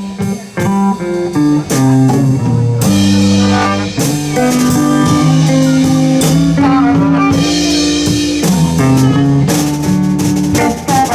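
Live electric blues band playing an instrumental intro, with guitar and drum kit.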